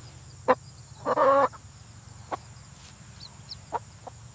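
Chicken clucking: one longer, pitched cluck about a second in and a few short, sharp clucks spaced through, over a steady low hum.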